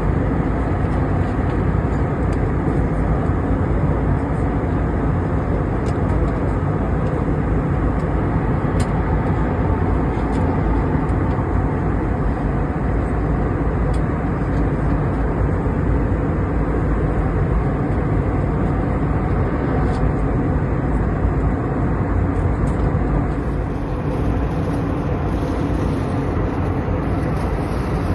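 Steady cabin noise of a jet airliner in flight, engines and rushing air heard from inside the cabin, dipping slightly near the end.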